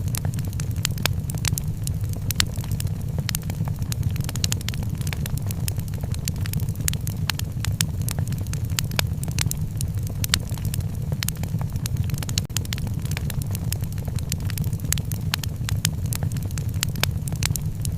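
Wood fire crackling in a fireplace: a dense run of sharp pops and snaps over a steady low roar of burning, with a brief drop in level about twelve seconds in.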